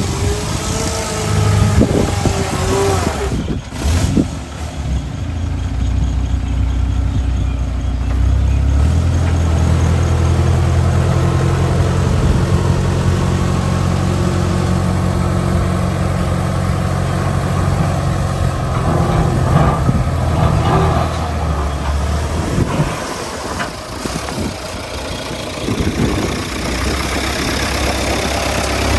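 Heavy diesel engine of earthmoving machinery running steadily under load. It drops back briefly about three-quarters of the way through and picks up again near the end.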